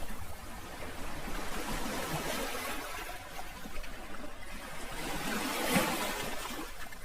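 Sea waves washing and lapping on the shore, a steady wash of water with one wave swelling louder about six seconds in.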